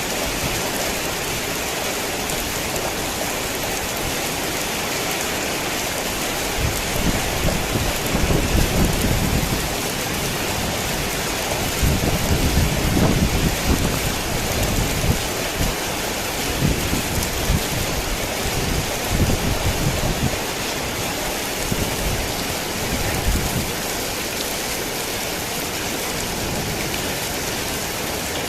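Heavy rain falling steadily, with low, irregular rumbles of thunder through the middle stretch.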